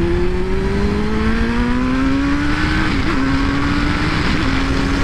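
Suzuki GSX-R600 inline-four engine pulling through a gear, its pitch rising steadily for about three seconds, then holding a steady note with a couple of small throttle wobbles. Wind rushes on the helmet microphone throughout.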